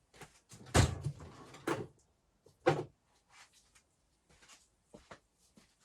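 Workshop handling noises: a few sharp knocks and clicks, the loudest a low thud about a second in, with lighter ticks and taps between.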